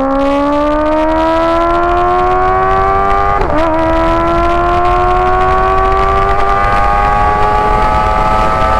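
Kawasaki ZX-6R's inline-four engine, fitted with an IX Race exhaust, accelerating under load with its pitch climbing steadily. A quick upshift dips the note about three and a half seconds in, and another comes near the end. Wind rushes over the microphone underneath.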